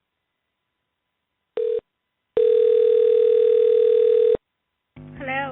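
Telephone ringback tone on an outgoing call: a short beep, then one steady two-second ring tone at a single pitch, followed by a pause.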